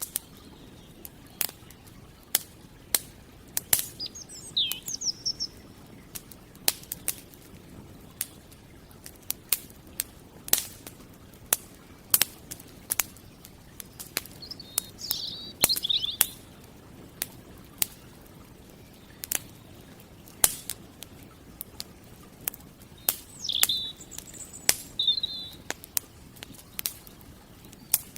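Wood campfire crackling, with frequent irregular sharp pops and snaps that are the loudest sounds. Small birds chirp in short bursts three times: about four seconds in, around the middle, and near the end.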